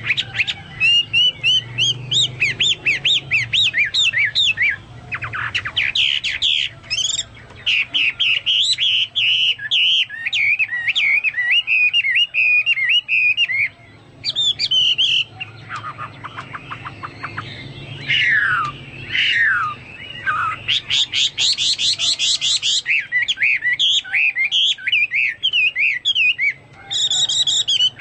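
A Chinese hwamei singing a long, loud, varied song in full voice, with a style likened to a cucak mas or cucak Papua. Rapid repeated notes alternate with fast trills and a few downward-sliding whistles, broken by short pauses.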